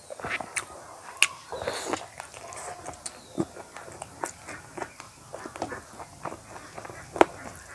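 Close-up chewing of a chicken leg piece with rice: wet lip smacks and clicking mouth sounds, with two sharp clicks standing out, about a second in and near the end.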